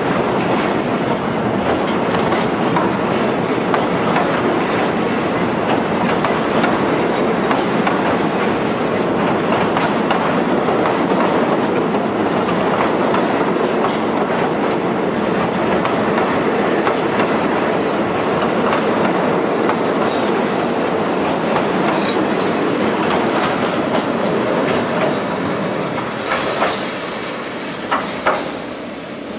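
Passenger train coaches rolling past at close range over a steel truss railway bridge, the wheels clattering over the rail joints in a steady run of clacks. The noise eases near the end as the last coach passes, with a couple of sharp clacks.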